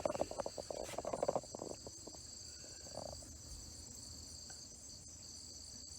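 A steady insect chorus, trilling on several high pitches. Crackling and rustling sounds are heard in the first second and a half.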